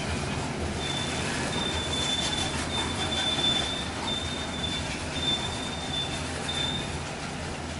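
Freight coal train rolling past on the rails, with a steady low rumble and a high wheel squeal that comes and goes from about a second in until near the end.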